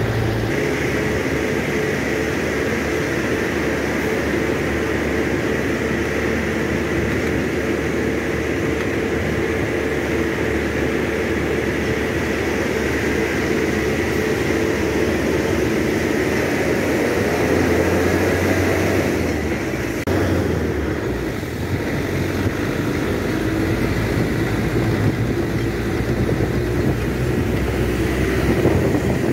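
Truck engine running under way at a steady pitch, with a dip about two-thirds of the way through before it picks up again.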